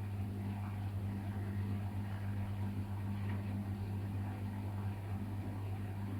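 LG washing machine running through its cycle: a steady low motor hum under a constant wash of noise, with no change throughout.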